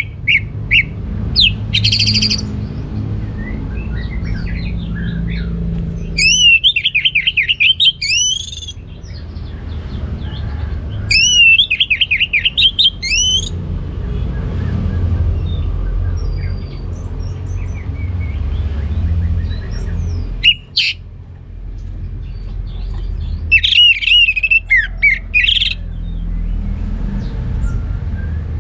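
Orange-headed thrush singing in loud, rapid phrases of two to three seconds, three main bursts with pauses between them and a couple of short notes in between. A steady low rumble runs underneath.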